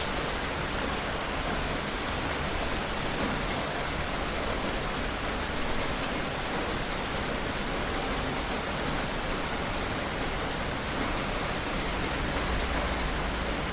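Steady heavy rain, a continuous hiss with scattered drops ticking. A low rumble comes in near the end.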